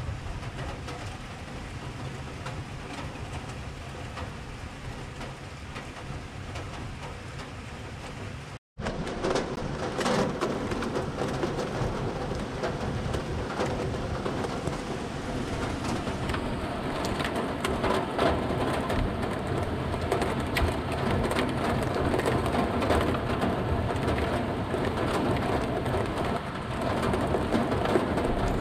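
Heavy rain during a thunderstorm. It cuts out for a split second about nine seconds in, then returns louder, with many sharp taps of drops striking close by.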